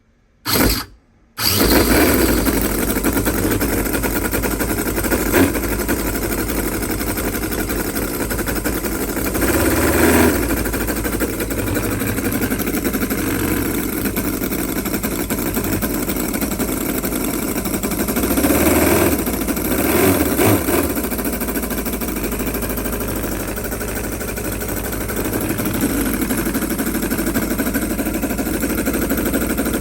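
Cison scale-model V8 engine spun over briefly by its new starter motor, then catching and running steadily. It is revved briefly about ten seconds in and twice more around two-thirds of the way through.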